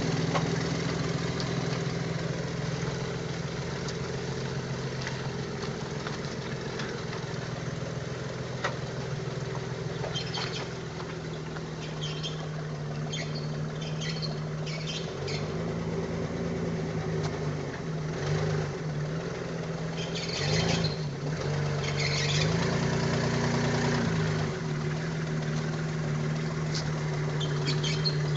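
Homemade tractor's engine running as it is driven. The engine note holds steady for the first dozen seconds, then dips and picks back up several times as it works, with some light rattling along the way, before settling again.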